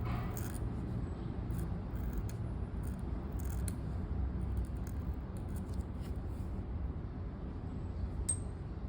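A scratchy pen nib moving across paper in short, irregular strokes, over a steady low background rumble. A few brief, thin bird chirps come through, the clearest near the end.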